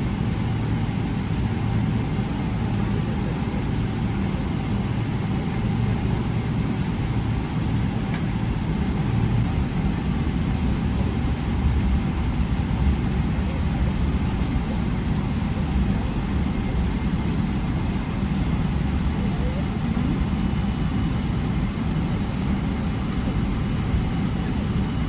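Steady low rumble of cabin noise heard from an economy seat inside a Boeing 777-300ER: the aircraft's engines and airframe running.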